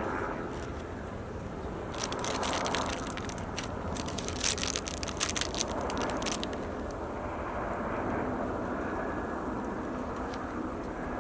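Handling noise from hive work: a dense run of crackling and clicking for about four seconds, starting about two seconds in. Under it is a steady low outdoor rush.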